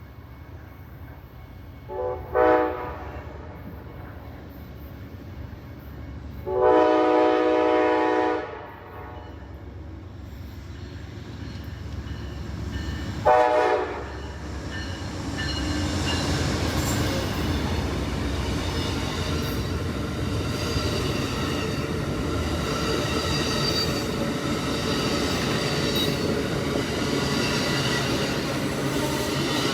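Amtrak passenger train's diesel locomotive horn sounding three blasts, short, long, short. The train then rolls past with a loud steady rumble and rattle of wheels on rail.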